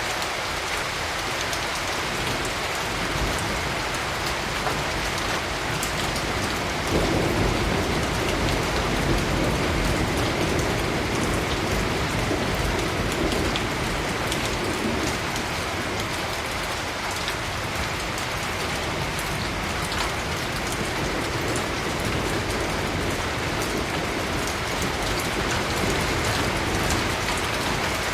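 Steady rain falling, with a low rolling rumble of thunder coming in about seven seconds in and dying away over the next ten seconds or so.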